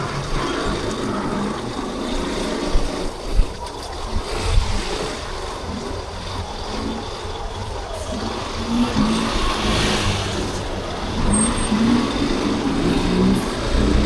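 Yamaha Crosser 150's single-cylinder engine running as the motorcycle is ridden through city traffic, its pitch rising in a few pulls in the second half. A few sharp knocks come about three to four and a half seconds in, and a short hiss about ten seconds in.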